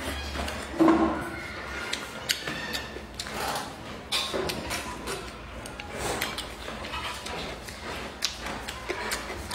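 A person biting and chewing sticky braised pork close to the microphone: a run of wet mouth smacks and clicks, the loudest about a second in.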